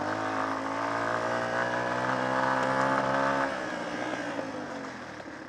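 Small off-road motorcycle engine pulling under throttle, its note climbing slightly in pitch; about three and a half seconds in the throttle is shut and the engine note falls away and quietens.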